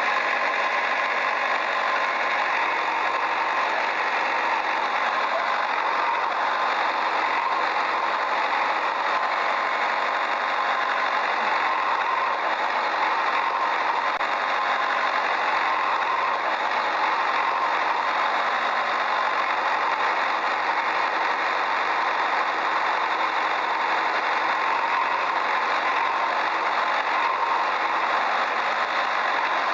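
Steady, continuous engine-like running sound with no pauses or sharp knocks.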